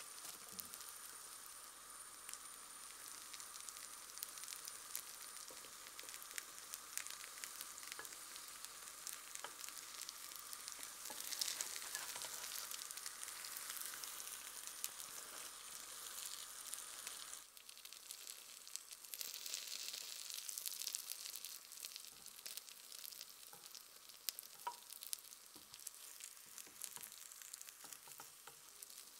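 Tofu and chickpea-flour batter sizzling in oil in a small square nonstick pan: a steady high sizzle with scattered small pops, which changes abruptly about two-thirds of the way through.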